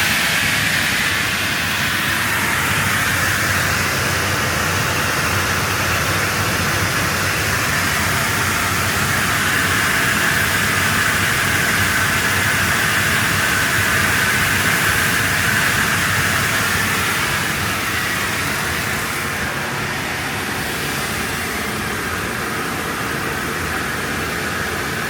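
Ironwood CUT24L 24-inch up-cut chop saw running steadily with its blade spinning free and no cut being made.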